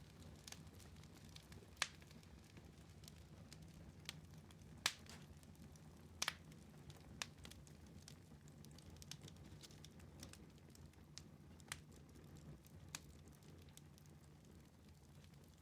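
Wood fire burning in a fireplace: a low, steady rumble of flame with scattered sharp crackles and pops, including a quick double pop about six seconds in.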